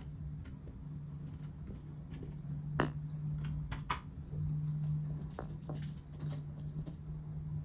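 Scattered light clicks and taps of small tools and parts being handled on a workbench, the sharpest a little under three seconds in, over a steady low hum.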